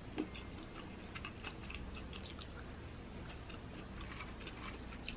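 Soft, close-up chewing of a small bite of roasted green chile pepper, with light wet mouth clicks scattered throughout.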